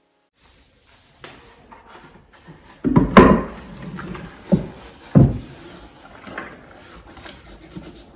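Household handling sounds in a small room: a click about a second in, then several dull wooden knocks and thumps, the loudest about three seconds in, with light rubbing and rustling between them.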